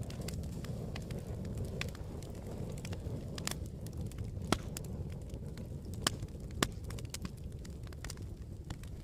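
Campfire crackling: a steady low rumble of burning wood with scattered sharp pops, a few louder ones in the middle.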